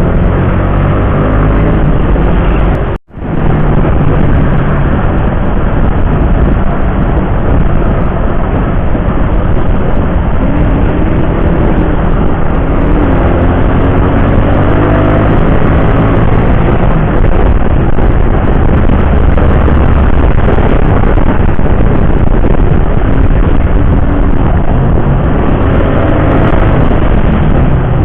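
Motorcycle engine running at road speed under loud wind rush, its pitch rising and falling several times as it speeds up and changes gear. The sound drops out for a moment about three seconds in.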